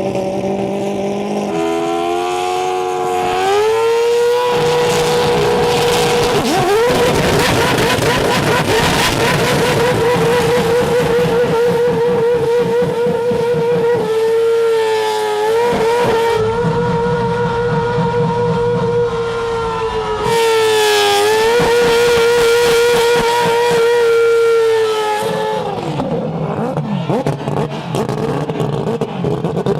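Mazda rotary engine revved hard and held at high rpm with a fast wavering, dipping and climbing again twice, then dropping back near the end, over the hiss of spinning tyres.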